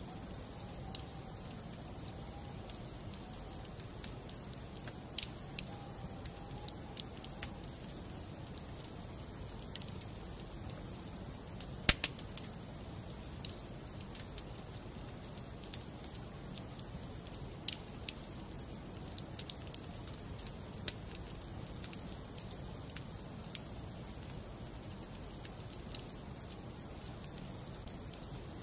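Wood fire burning in a fireplace: a steady low rumble of flames with scattered sharp crackles and pops, one much louder pop about twelve seconds in. A faint wavering whistle runs through the first several seconds.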